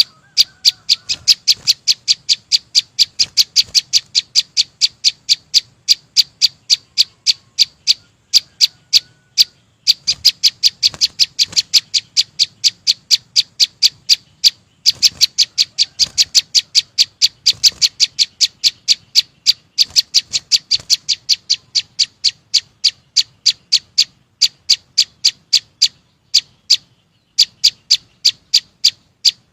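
A small songbird, the 'chim sâu xanh', repeating one short, sharp, high note about four times a second in long runs, with a few brief pauses.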